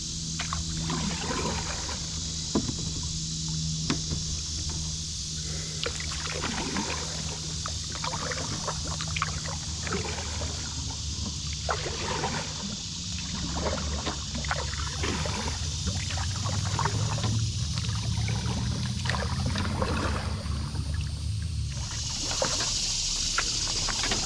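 A kayak being paddled: irregular small splashes, drips and knocks from the paddle and hull, over a steady low hum and a steady high hiss.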